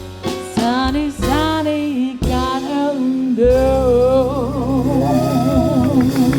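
A live blues band's closing bars: a female singer's wordless run that settles into a long held note with wide vibrato, over piano, drums and bass holding the final chord.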